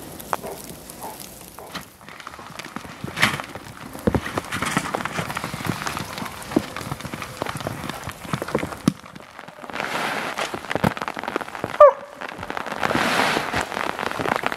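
Rain pattering, with a plastic tent groundsheet rustling and crackling as it is unfolded and spread out on snow. A brief falling squeak comes near the end.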